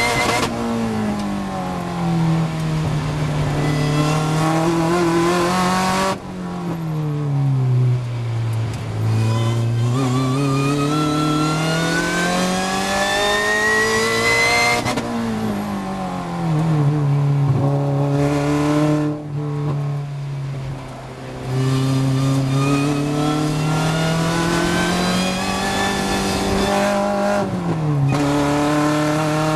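Supercharged Opel Speedster's four-cylinder engine heard from inside the car at racing speed. Its pitch climbs steadily under hard acceleration, falls away sharply about six seconds in as the driver brakes and downshifts, then climbs again, with further shifts and short lifts later on.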